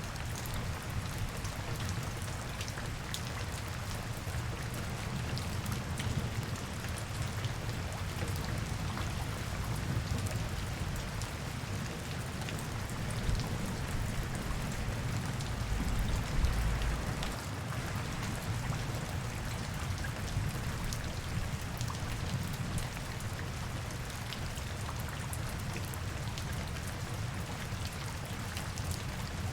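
Steady rain falling, with many separate drops ticking close by, over a low steady rumble; a brief deeper swell about halfway through is the loudest moment.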